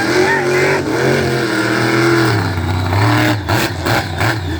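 Monster truck engine revving hard, its pitch rising and falling as the throttle is worked. Several short sharp cracks come about three seconds in.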